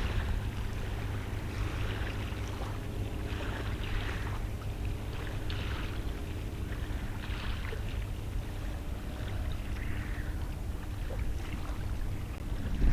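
Steady low rumble of distant jet aircraft engines, with wind buffeting the microphone.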